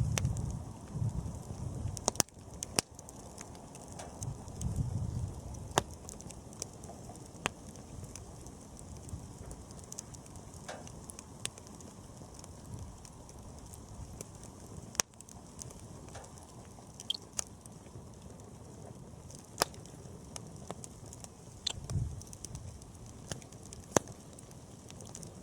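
Wood bonfire crackling: irregular sharp pops and snaps over a steady low rush of burning, with a few brief low swells.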